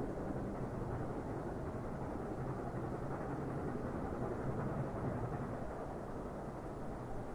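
Train running in the distance: a steady low rumble.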